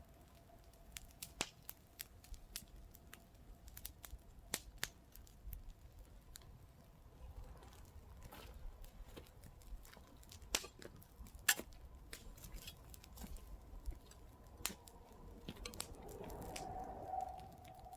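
Wood campfire crackling: irregular sharp pops and snaps over a soft low rush. A faint steady tone swells briefly near the end.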